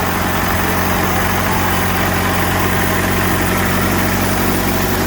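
Pre-war car engine idling steadily.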